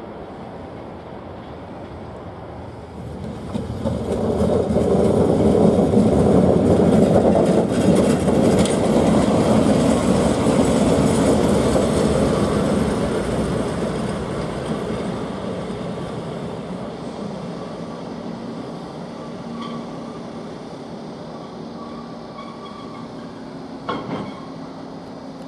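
Train running past on the tracks: a rumble of wheels and carriages builds about three seconds in, stays loud for several seconds, then slowly fades. There is one sharp knock near the end.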